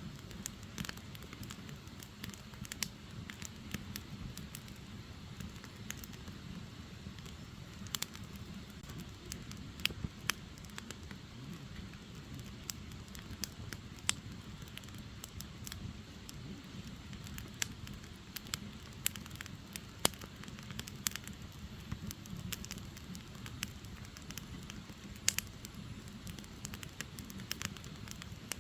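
Firewood burning: irregular sharp crackles and pops from the wood over a steady low noise of the fire.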